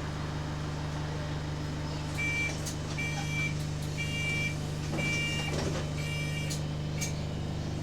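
Inside a bus, the engine hums steadily while a series of six high electronic warning beeps sounds, about one a second, starting about two seconds in.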